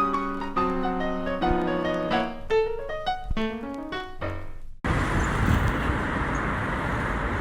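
Solo piano music playing, cut off abruptly about two-thirds of the way through by outdoor street noise: a steady rumble of traffic.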